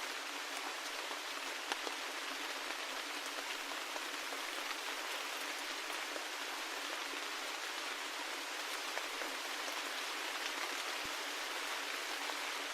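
Steady rain falling, an even hiss with many individual drops ticking through it, one a little louder about two seconds in.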